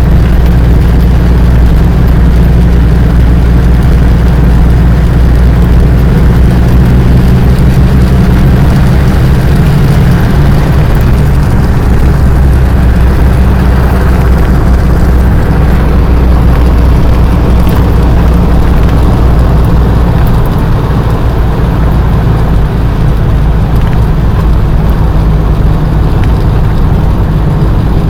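An engine running steadily with a loud, low hum; the deepest part of the hum eases off about twenty seconds in.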